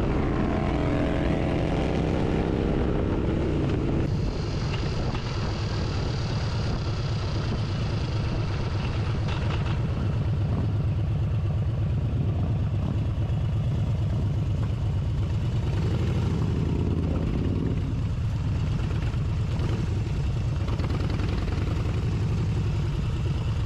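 Motorcycle engine running on the road over a steady rush of noise; its pitch shifts during the first few seconds, then holds steady.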